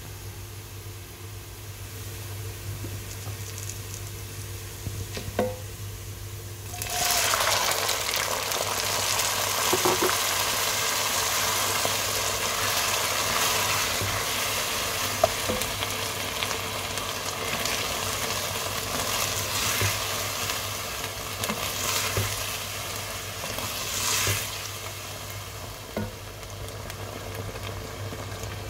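Onions frying in oil in an enamel pot, stirred with a wooden spoon. About seven seconds in, chickpeas go into the hot oil and the sizzling suddenly gets much louder. It carries on loud as they are stirred.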